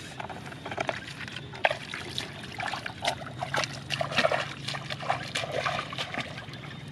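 Shallow muddy water trickling and splashing in small, irregular splashes and drips, as hands work through the water catching catfish. A faint low hum runs underneath.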